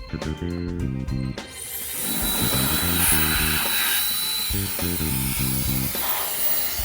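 COLBOR AirMaxx A1 mini jet fan blower spinning up about one and a half seconds in, then running with a loud rush of air and a thin, steady high whine, over background music.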